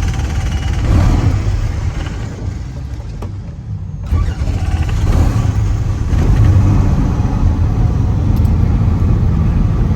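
Car engines running and revving, with a heavy low rumble throughout; the sound breaks off briefly about three to four seconds in, then resumes.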